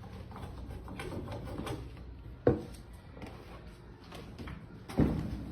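Light knocking and scraping of things being handled, with one sharp knock about two and a half seconds in and a louder thump near the end.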